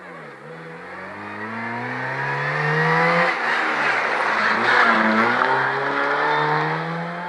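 Rally car accelerating hard past on a stage: the engine note climbs for about three seconds, drops sharply, then climbs again, loudest as the car comes by in the middle.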